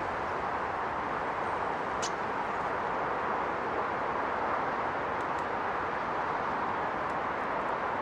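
Steady rushing outdoor background noise, with a single short high-pitched call from a small bird about two seconds in and a few faint high ticks later on.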